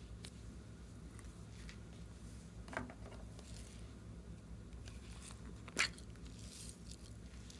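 Clear slime being squished and stretched by hand, with faint crackles and two sharp pops about three seconds apart.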